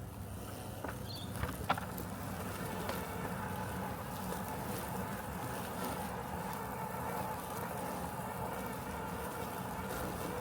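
Robotic lawn mower running with a steady mechanical hum, and two sharp clicks about one and a half seconds in.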